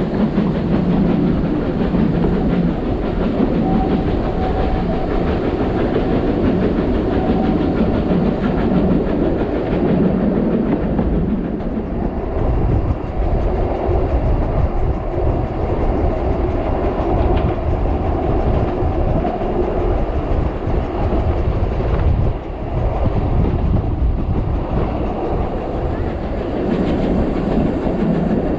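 Narrow-gauge steam train running along the line, heard on board: steady running noise of the carriage wheels on the track.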